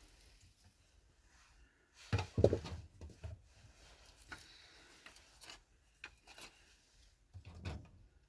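Knocks and scraping of objects being handled in a small room: a cluster of sharp knocks about two seconds in, a few lighter clicks, then more knocks near the end.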